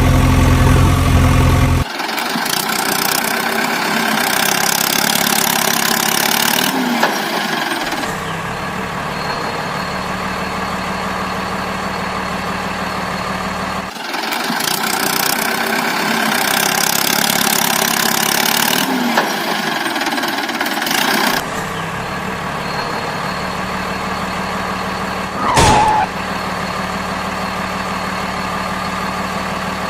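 Vehicle engine running steadily, heard in segments that change abruptly every six seconds or so, with a short sharp sound about 25 seconds in.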